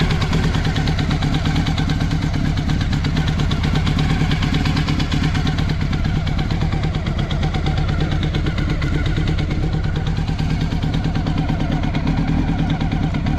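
Honda CBX750F's inline-four engine idling steadily through a Yoshimura Cyclone four-into-one full exhaust with a short silencer, running evenly with no abnormal noises.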